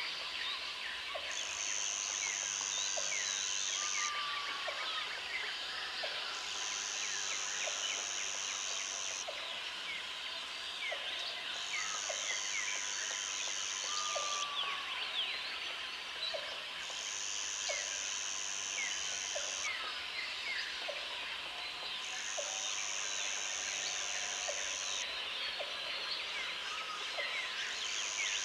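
Tropical forest ambience: an insect buzzes in a high, even band in bouts of about three seconds with short gaps between, over a dense chorus of many small birds chirping. Beneath them a short low call repeats about once a second.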